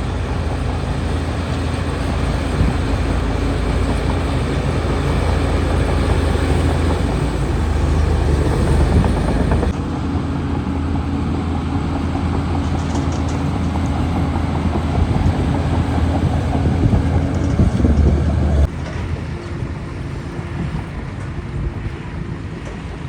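Heavy diesel engine of a bulldozer running steadily with a low drone. The sound changes abruptly about ten seconds in and again near nineteen seconds, getting quieter after the second change.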